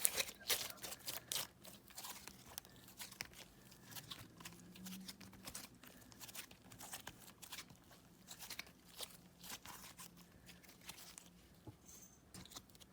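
Hands squishing and stretching a smooth, thick slime, giving a dense run of small irregular clicks and pops.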